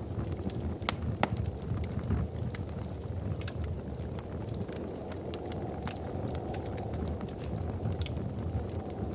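Wood fire crackling in a fireplace: a steady low rush of flame with irregular sharp pops and snaps, the loudest a little over a second in.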